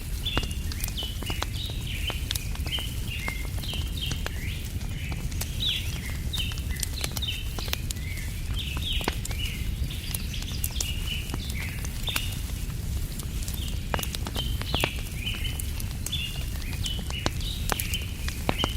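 Wood fire crackling with scattered sharp pops, under a steady low rumble, while birds chirp busily and without pause.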